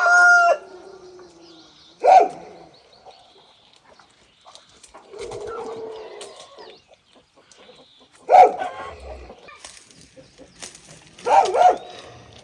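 Farmyard birds calling: several short, loud calls at the start and about two, eight and eleven seconds in, with quieter scuffling between.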